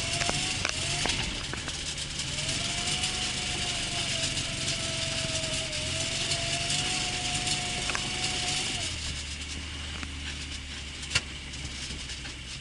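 A Lada Zhiguli's engine runs steadily with a wavering pitch, over a constant hiss. Its note drops and changes about nine seconds in. There is a single sharp knock near the end.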